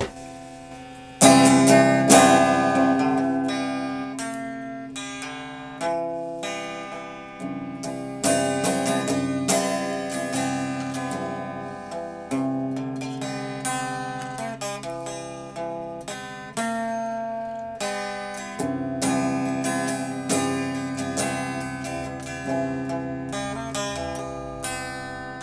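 Music played on a plucked string instrument: single notes and chords struck and left to ring out, with a strong, loud pluck about a second in.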